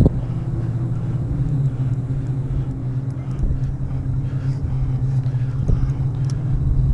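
Steady engine hum with a low rumble, its pitch stepping slightly about two seconds in.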